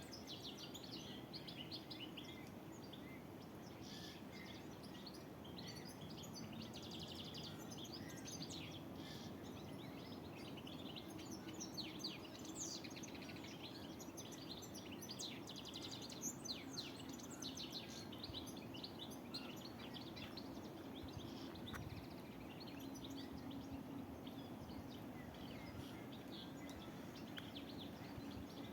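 Several songbirds singing and chirping, with many short, high notes and trills that are busiest through the first two thirds and thinner near the end. Under them runs a steady low background rumble.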